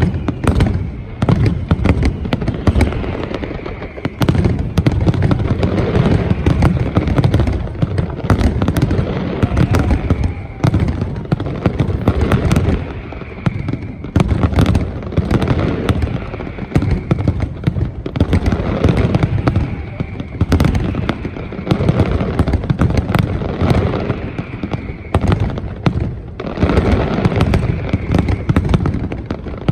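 Fireworks display going off in a rapid, continuous barrage: many sharp bangs and crackles over a steady deep rumble of booming shells, with a few falling whistles among them.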